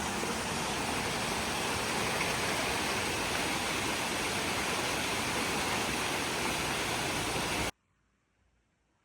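Steady rushing noise that cuts off suddenly a little over a second before the end.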